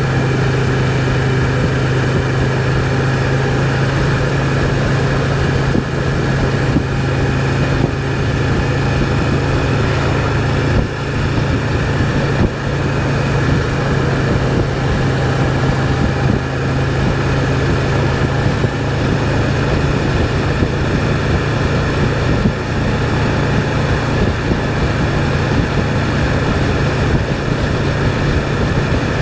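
Can-Am Spyder three-wheeled motorcycle cruising at a steady speed: its three-cylinder engine holds a steady low hum under constant wind and road noise.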